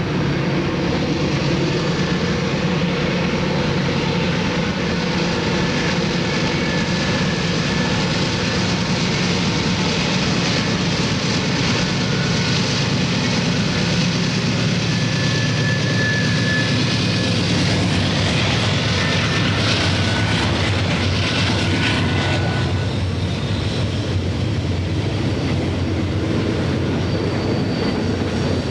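Diesel-powered freight train passing, its locomotives' engines running with a steady low drone. Wheel-on-rail noise with brief high squeals rises through the middle and eases off near the end.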